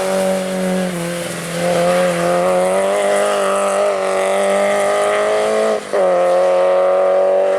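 Race car engine under hard acceleration, pulling through the gears. The pitch climbs slowly, with gear changes about a second in and again near six seconds.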